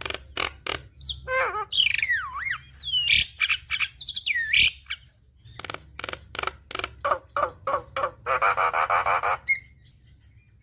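Javan myna singing: a run of sharp clicking notes and whistled notes that glide up and down, then more clicks leading into a harsh buzzing rattle about eight seconds in.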